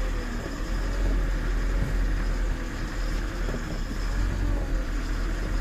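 Diesel engine of a loaded Tata 1512 truck running steadily with a low rumble as the truck drives slowly over a rough road.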